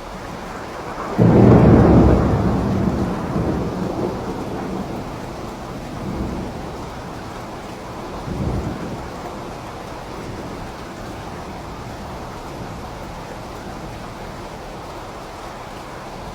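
Steady rain with a clap of thunder about a second in that rumbles away over several seconds, followed by two fainter rolls of thunder later on.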